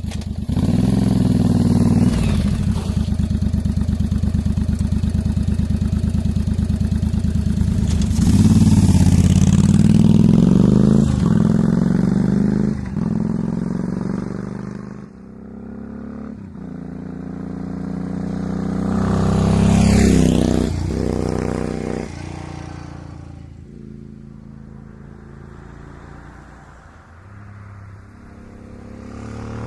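Yamaha XV750 V-twin motorcycle engine with a Jardine exhaust running, then accelerating through several gears, its note rising and dropping at each shift. The sound falls away, swells to its loudest about twenty seconds in as the bike passes, fades, and builds again near the end.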